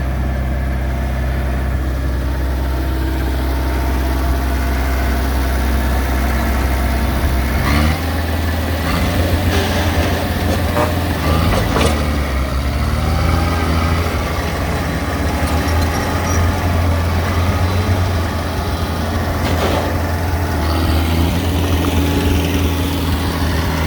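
Heavy diesel engine of a large machine running steadily, its note changing about eight seconds in, with a few short knocks.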